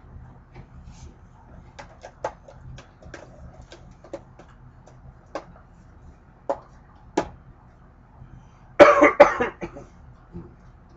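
Crunchy vegetable crisps being chewed, a sharp crunch every second or so, then a short burst of coughing, the loudest sound, about nine seconds in.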